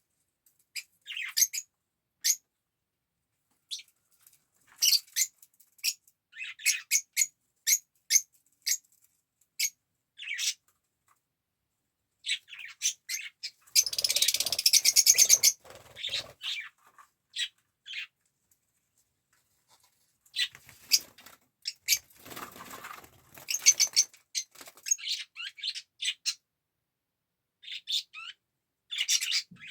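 Fischer's lovebird chirping in short, high-pitched calls, with two longer, harsher noisy stretches near the middle and about two-thirds of the way through.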